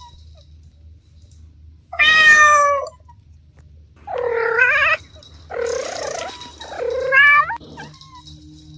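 A cat meowing four times, about two, four, five and a half and seven seconds in; the first is short and loud, the later ones longer and wavering, the last rising at its end.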